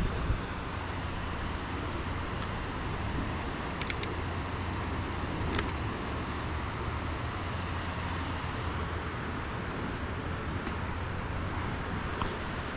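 Steady low rumbling background noise outdoors, with a few faint clicks about four seconds in and again shortly after.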